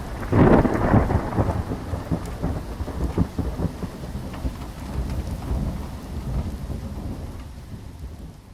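Summer thunderstorm: a thunderclap rumbles about half a second in, over steady rain, then the low rumbling and rain carry on and slowly fade toward the end.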